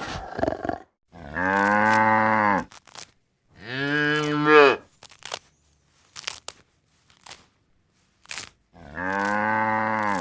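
Cow mooing three times, each call a drawn-out low moo of about a second or more, with a few short clicks and crunches in the pauses between.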